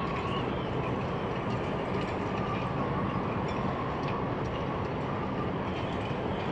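Diesel passenger train crossing a steel railway bridge: a steady, even rumble with no change in loudness.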